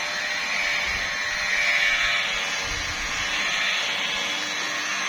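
Handheld electric paint-correction machine running steadily against car paint: a continuous motor whine over a hiss from the pad on the bonnet.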